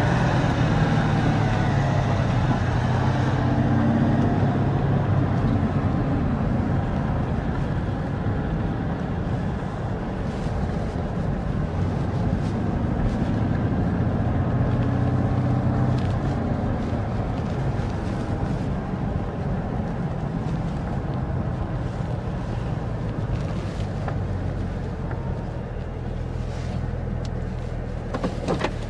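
The supercharged 6.2-litre V8 of a Chevrolet Camaro ZL1 1LE running loud and fairly steady, its pitch falling in the first couple of seconds.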